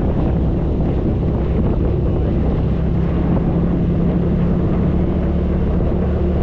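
Side-by-side UTV engine running steadily while driving on a trail, with wind buffeting the microphone.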